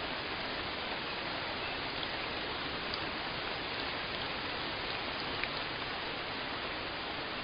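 Steady rainfall: an even hiss of rain with a few faint separate drops ticking now and then.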